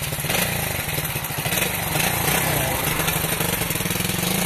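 Small single-cylinder motorbike engine of a pit bike or moped, running at a fairly steady speed with a fast, even putter.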